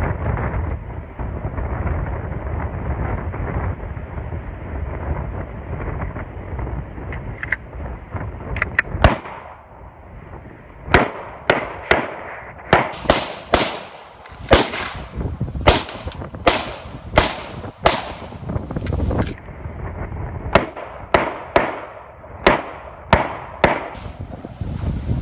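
Wind noise on the microphone for the first several seconds, then a string of about twenty single .45 ACP pistol shots from a dirt-fouled Glock, fired one at a time at an uneven pace of one to two a second.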